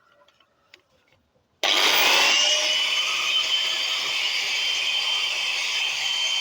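Angle grinder switched on about one and a half seconds in and cutting into the steel embedded in a wall opening: a harsh grinding noise with a steady high whine that rises a little as the disc gets up to speed.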